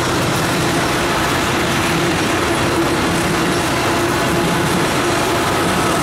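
Freight train of ethanol tank cars rolling past on steel wheels and rails: a loud, steady rolling noise with a faint steady hum underneath.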